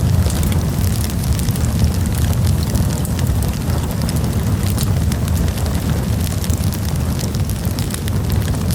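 Wood campfire burning and crackling, with frequent small pops and snaps over a steady low rumble.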